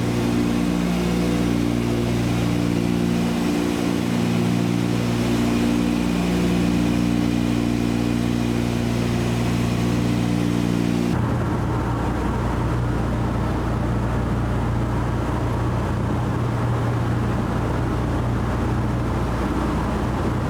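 Radial piston aircraft engines droning steadily, with an abrupt change in the tone about eleven seconds in.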